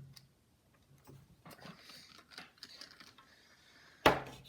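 Light clicks and taps of hand tools on a motherboard during soldering work, with one sharp knock about four seconds in.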